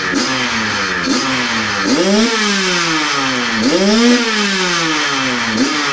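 Two-stroke motorcycle engine with a racing exhaust being revved in repeated throttle blips, about five in all, each rising sharply and falling back. The two biggest come about two and four seconds in.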